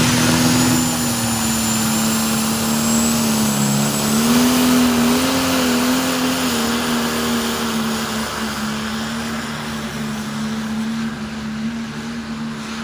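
Pro stock pulling tractor's diesel engine running hard at high revs under load, its pitch wavering a little midway, with a high whistle rising in the first few seconds. It grows gradually quieter toward the end.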